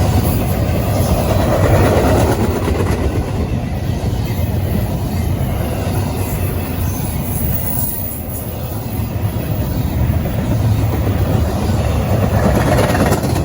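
A train rolling past, its wheels making a steady rumble and clatter over the rails.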